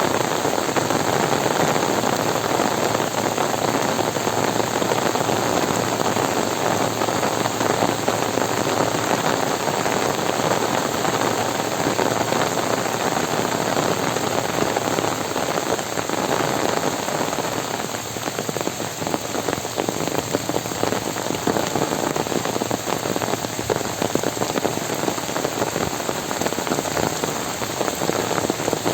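Heavy rain falling in a dense, steady hiss of countless drops, easing slightly about two-thirds of the way through.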